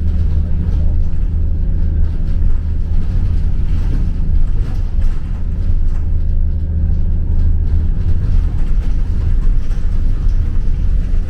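Steady low drone and rumble of a moving vehicle.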